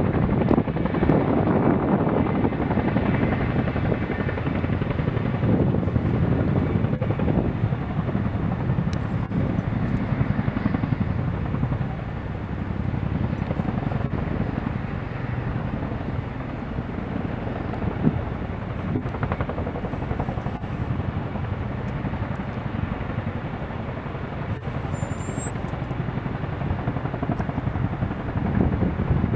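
Boeing CH-47F Chinook tandem-rotor helicopters running on approach and landing: a dense, steady rotor and turbine noise, easing somewhat midway and swelling again near the end.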